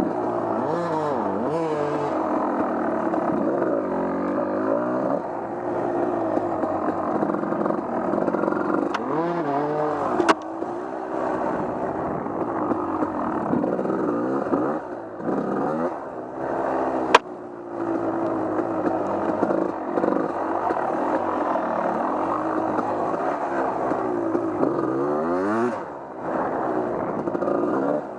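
Off-road vehicle engine running under changing throttle, its pitch rising and falling again and again as it revs and eases off. Two sharp clicks stand out partway through, about seven seconds apart.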